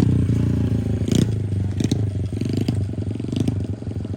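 Motorcycle engine running as the bike is ridden, with a steady fast putter and a few light clatters; it grows slightly quieter toward the end.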